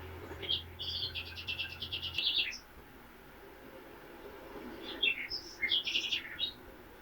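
Songbirds chirping: a run of quick, high repeated notes from about half a second to two and a half seconds in, then another burst of chirps around five to six and a half seconds.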